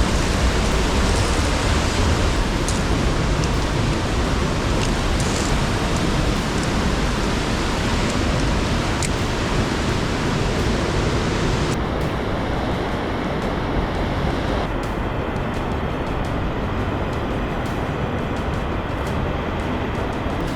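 Steady rushing of the Fanes waterfall and its stream canyon, a loud even wash of water noise that turns duller, losing its hiss, about twelve seconds in. A few faint clicks sound over it early on.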